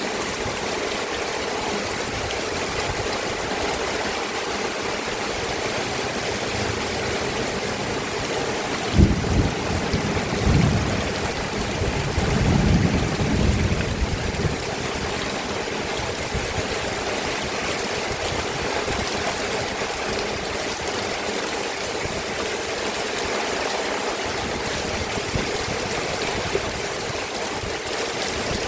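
Steady rain falling, an even hiss of water. About a third of the way in, a low knock is followed by a few seconds of low rumbling.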